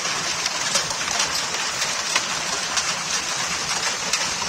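Heavy rain falling in a dense, steady hiss, with scattered sharp taps of drops striking.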